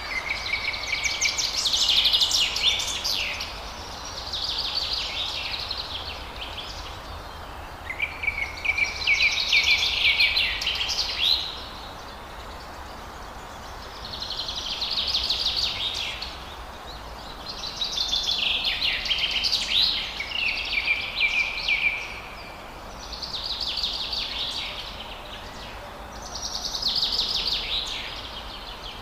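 Songbirds singing, one rapid, chattering phrase of trilled notes after another every few seconds, several of them opening on a short steady whistle, over a steady background hiss.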